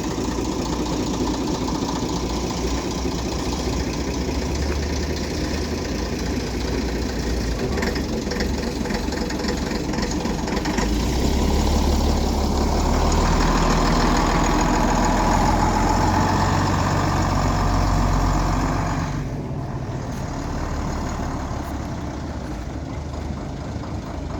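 Bus engines running at a busy bus station; the low engine rumble grows louder about halfway through as a bus pulls out or passes close, then drops off suddenly about three quarters of the way in.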